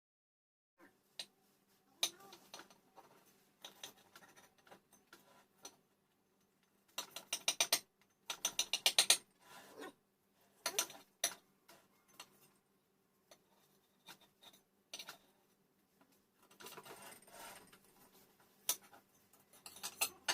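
Knife slicing through a baked apple pie: scattered clicks and scrapes, with a couple of quick runs of rapid ticking strokes about halfway through and again near the end.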